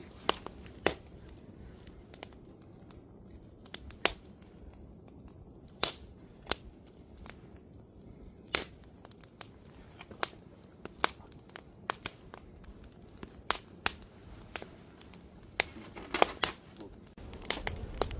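Wood campfire crackling, with irregular sharp pops over a low steady burning noise and a quick run of pops near the end.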